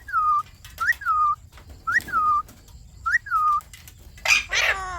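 Indian ringneck parakeet whistling the same short call four times, about once a second: each call is a quick rising note that drops to a lower, held tone. Near the end there is a louder harsh squawk.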